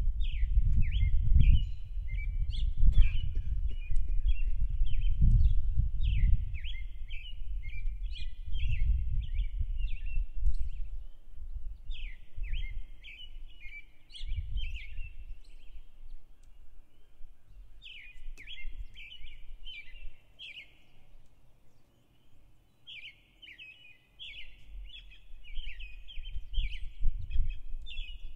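A songbird singing phrases of quick high notes, each lasting a few seconds, with short pauses between them. Under it runs a low rumbling noise, loudest in the first several seconds and again near the end.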